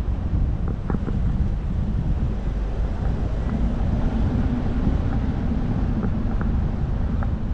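Wind buffeting the microphone outdoors: a steady low rumble with an even hiss above it.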